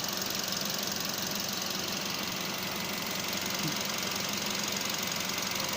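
Nissan Qashqai 1.6 engine idling steadily, running rough with a shake at idle that the owner cannot explain.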